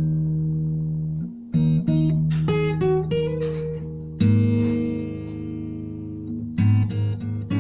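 Acoustic guitar playing an instrumental: a chord left to ring and fade, a short run of plucked notes climbing in pitch, another chord struck about halfway in and left to ring, then a steady picked pattern near the end.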